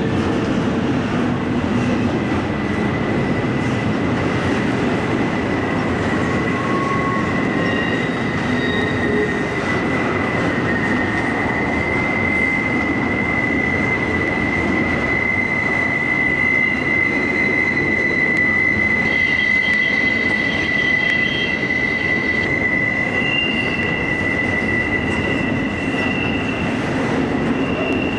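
Freight train rolling past on a curve, its steel wheels squealing against the rail in long, steady high tones over the continuous noise of the passing cars.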